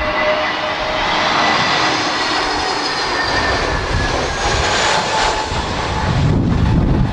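Jet airliner passing close on its landing approach, its engines sounding as a loud rush with whining tones that slowly fall in pitch. Gusty wind rumbles on the microphone near the end.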